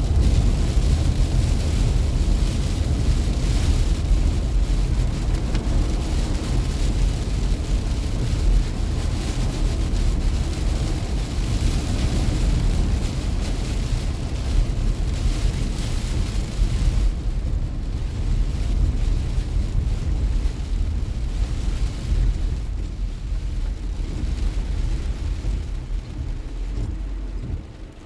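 Car driving through standing water on a rain-soaked road: a steady low rumble of tyres with a rushing hiss of water spray, the hiss easing about 17 seconds in to leave a quieter road rumble.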